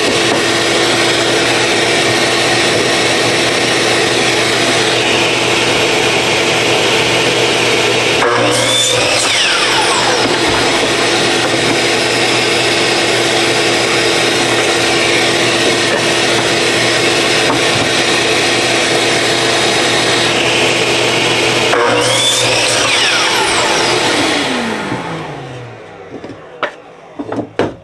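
Electric miter saw running steadily, with two brief changes in its sound as the blade passes through a fence picket board. Near the end the motor is switched off and spins down in falling pitch, followed by a few light wooden knocks as the cut pieces are handled.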